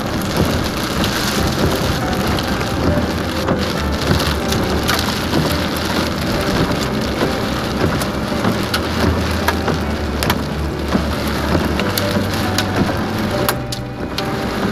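Heavy rain drumming on a car's windshield and roof, heard from inside the cabin, with many sharp raindrop hits over a steady low hum of the car driving on the wet road. The rain eases briefly near the end.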